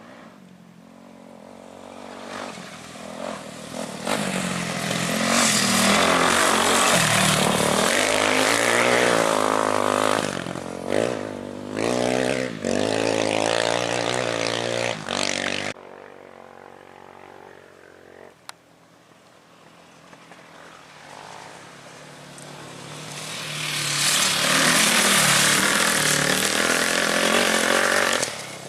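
Off-road race vehicles' engines passing at speed. One approaches, runs loud with its pitch rising and falling as it is worked through the curve, and cuts off abruptly about halfway. A second one approaches and runs loud near the end.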